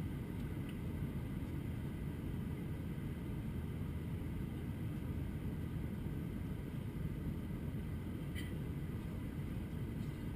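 Steady low rumble of an Airbus A321-200's cabin noise in flight, the engine and airflow drone holding an even level, with one faint click about eight seconds in.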